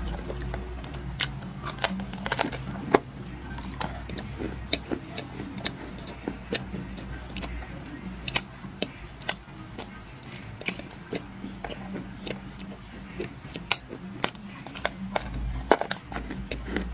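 Dry clay being crunched and crumbled, giving many irregular sharp crackles and snaps, over a steady low hum.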